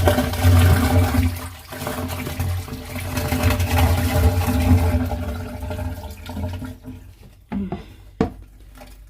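A plastic basin full of water drained from a washing machine being poured out, gushing and splashing, then tapering off about six seconds in, with a few knocks near the end.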